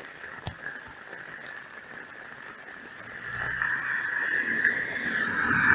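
Steady rain, then from about halfway through a car approaching on the wet road: the hiss of its tyres on the water and its engine's rumble grow steadily louder toward the end.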